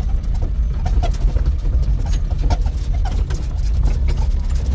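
Vehicle driving with a steady low rumble, with frequent knocks and rattles on top, as on a rough track.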